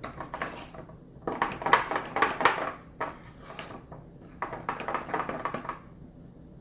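A spoon or similar utensil stirring ranch seasoning into mayonnaise in a bowl, scraping and clicking against the bowl in four short spells with brief pauses between.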